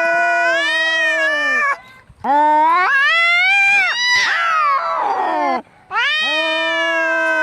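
Angry cats yowling: three long, drawn-out caterwauls with two short breaks between them. The middle howl rises, then breaks up rough with crossing pitches, the drawn-out wail of cats squaring up to fight.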